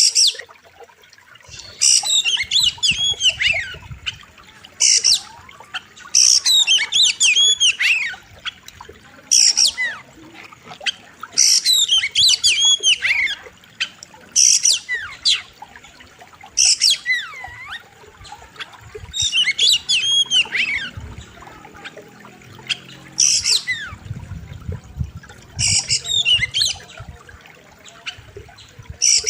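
Oriental magpie-robin singing loudly in short phrases of sharp, sweeping whistles and warbles, a new phrase every two to three seconds.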